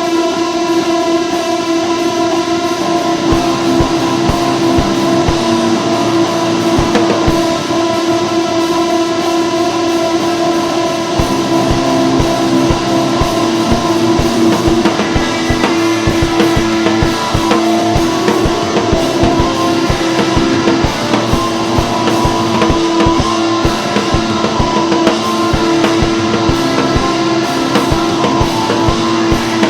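Rock music with distorted electric guitar and a drum kit playing a steady beat, over a held guitar note.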